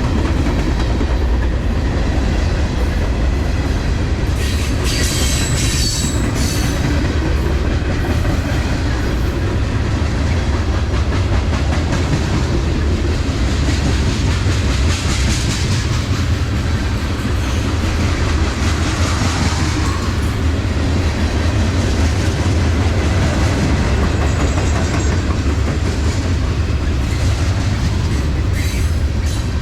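Train cars rolling past at close range: a steady heavy rumble with wheels clicking over the rail joints, and a few brief high metallic squeals from the wheels.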